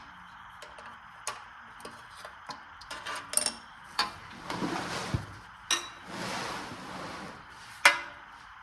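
Hand tools clinking and clicking against metal engine parts during work on the engine's bolts, with scattered sharp clicks, stretches of scraping in the middle, and one loud clink near the end.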